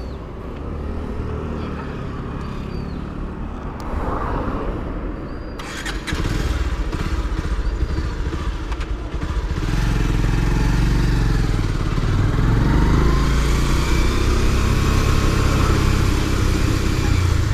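Motorcycle engine running while riding, heard from on the bike. It grows louder about six seconds in and again about ten seconds in.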